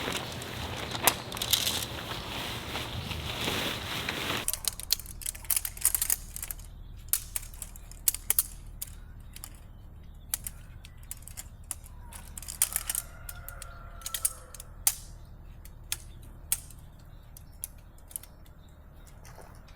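Irregular sharp clicks and taps of a small camping tent being pitched by hand: poles, clips and fittings handled. For the first four seconds a loud steady rushing noise sits under them, then stops abruptly.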